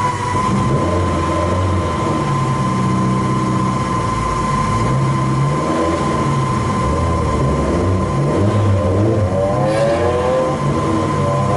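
Time attack car's engine running hard on track, its pitch rising through the revs several times near the end, with a steady high-pitched whine running under it.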